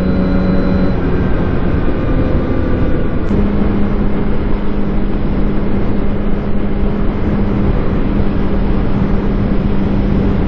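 Yamaha R1's inline-four engine running at steady cruising revs under heavy wind noise. About a second in the engine note drops away, then from about three seconds in it holds a steady, slightly higher note.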